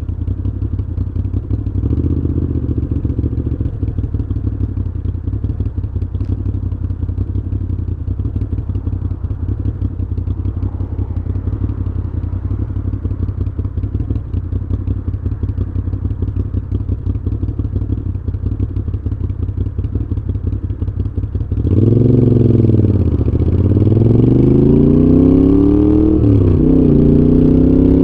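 Moto Guzzi V7's air-cooled V-twin through Mistral exhausts, running steadily at low revs for most of the stretch. About 22 seconds in it gets suddenly louder as the throttle opens, the revs dip and then climb, and after a gear change they climb again.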